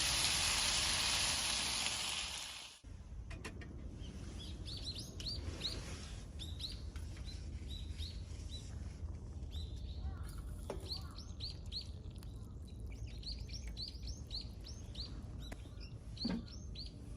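Food sizzling in a pan over the fire, cutting off abruptly at about three seconds in. Then small birds chirping, many short high calls, over a low steady rumble.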